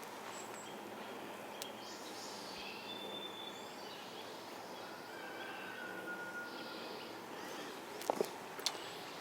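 Steady outdoor background noise with a few faint, short bird calls. Several sharp clicks sound near the end.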